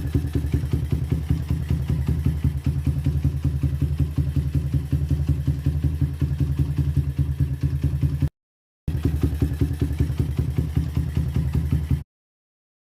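Engine idling through an aftermarket ZVR exhaust muffler: a steady deep bass exhaust note with fast, even pulses. It cuts out for a moment about eight seconds in, resumes, then stops abruptly shortly before the end.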